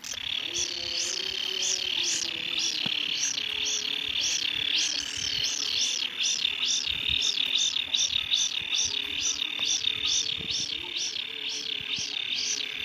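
Baby kingfisher chicks making their alarm-like begging call from the throat. It is a high call that rises and falls about two to three times a second, over a steady high trill.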